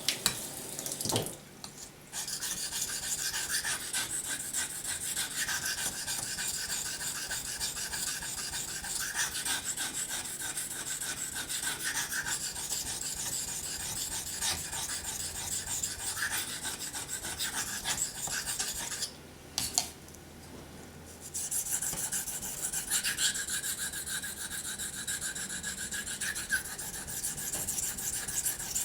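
Steel hunting-knife blade being stroked back and forth over a wet 800-grit waterstone with slurry on it, a steady rapid scraping. The strokes stop briefly twice, about a second and a half in and for about two seconds some two-thirds of the way through.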